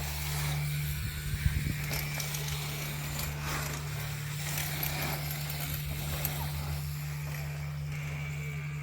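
BMX tyres running over dirt trails with a few short knocks, the loudest about a second and a half in, over a steady low hum.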